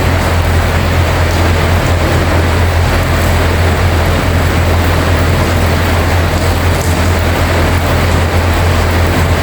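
Heavy rain falling steadily, a dense even hiss, over a constant low hum.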